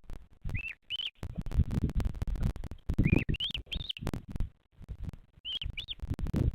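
Bearded vulture chick peeping: seven short high chirps in three groups of two or three, each rising and then falling in pitch. Under them run bursts of low rumbling and knocks.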